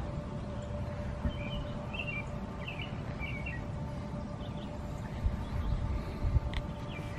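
Songbirds chirping in short, quick phrases, several clusters of calls, over a steady faint hum and a low rumble with a couple of louder bumps past the middle.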